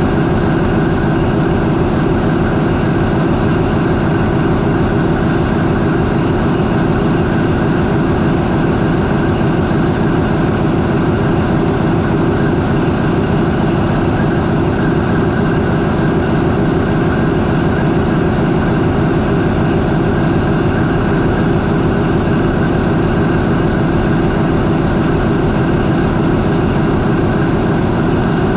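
MAN 20V28/33D STC V20 marine diesel main engine idling at about 400 rpm, with a loud, steady, unchanging running sound.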